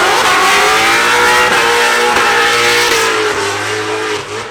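Competition car engine at high revs under hard acceleration. There is a gear change right at the start, then it holds its revs and fades a little near the end as the car moves away.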